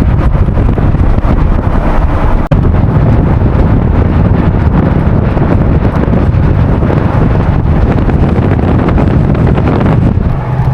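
Car driving along, with loud wind buffeting the microphone over the road and engine noise. The sound drops out for an instant about two and a half seconds in.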